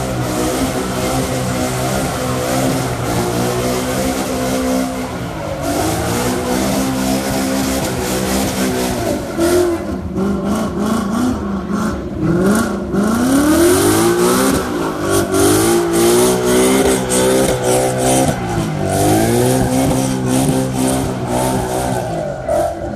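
A car engine revving hard over and over, its pitch climbing and falling back several times, with tyres squealing as the car does a burnout.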